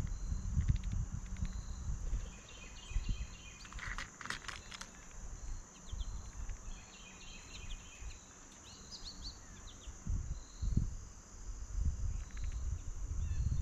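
Small birds calling in short bursts of rapid high notes over a steady high insect drone, with frequent low thumps and knocks close to the microphone.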